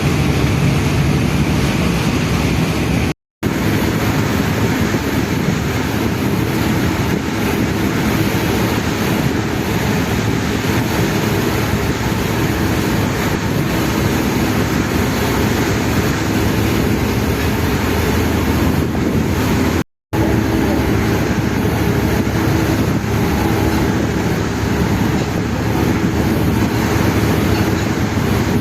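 Passenger ferry under way: the engine hums steadily under wind and water noise. The sound cuts out to silence for a moment twice, about three seconds in and again near twenty seconds.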